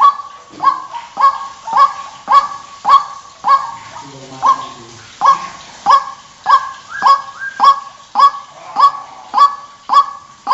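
White-breasted waterhen (ruak-ruak) calling: one loud, clear, honking note repeated evenly a little under twice a second, each note starting sharply and trailing off, with a brief pause about four seconds in. It is a call used as a lure to attract waterhens.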